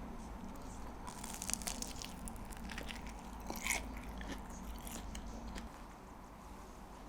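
A person biting into and chewing crisp food, with crunches coming in quick clusters from about one to five seconds in.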